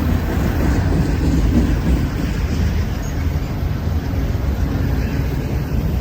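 A passing train, a loud, steady low rumble with no distinct knocks or horn.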